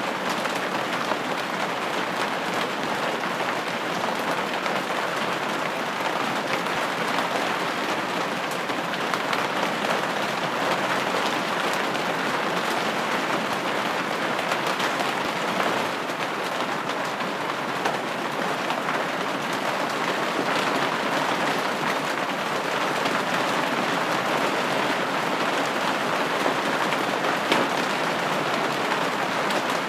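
Steady rain falling on a window: an even hiss with faint scattered ticks of individual drops.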